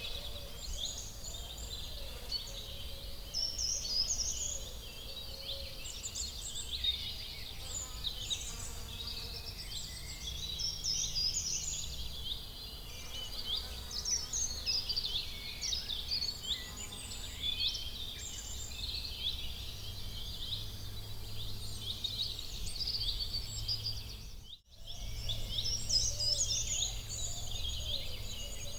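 Many small birds singing and chirping at once in a dense, unbroken chorus of quick high chirps and trills over a low, steady rumble. The sound cuts out for an instant about three-quarters of the way through, then goes on.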